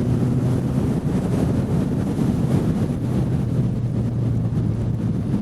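Motorcycle engine running at a steady cruise, with wind rushing over the helmet microphone.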